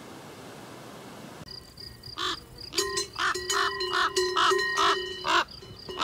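A steady hiss like wind on the microphone, then, after about a second and a half, a bird's harsh, loud calls repeated about three times a second.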